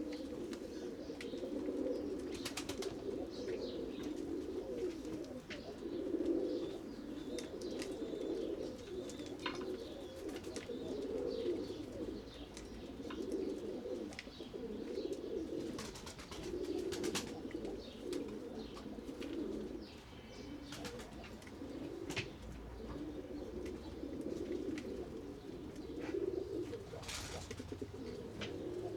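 A flock of domestic pigeons cooing continuously, many calls overlapping, with scattered sharp taps and clicks among them.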